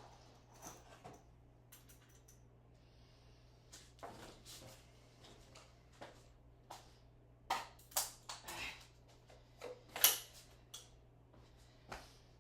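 Irregular light knocks and clicks, several in quick succession and loudest between about seven and ten seconds in, over a steady low hum.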